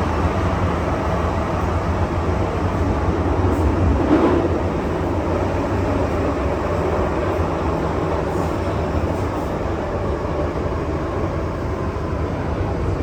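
MTR M-Train metro train running between stations, with a steady rumble of wheels on rail and running gear and a faint steady motor tone. The rumble swells briefly about four seconds in.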